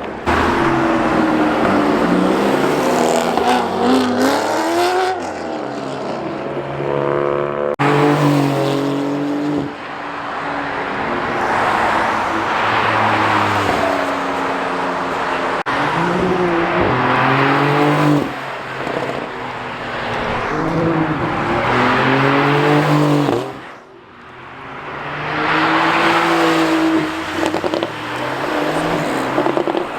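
Cars driving past one after another, their engines revving up and falling back in repeated loud swells as each one passes, with a short lull in between.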